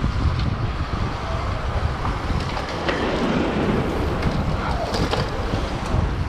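Wind buffeting the microphone of a camera riding along on a bicycle, a steady low rumble with a few faint clicks and passing street sounds over it.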